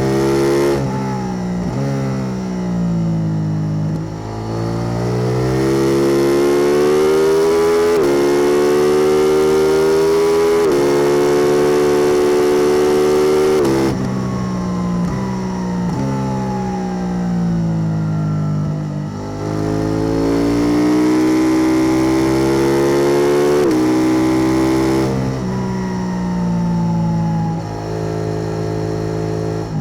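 KTM 890 Duke R's parallel-twin engine through a Spark Dyno double slip-on exhaust, accelerating hard: the pitch climbs through each gear and drops at every upshift. Twice the pitch falls slowly for several seconds as the bike slows, then climbs again.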